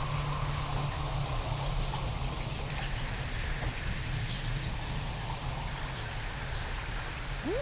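Steady rain falling, with a low continuous rumble underneath. Right at the end a tone starts to glide upward.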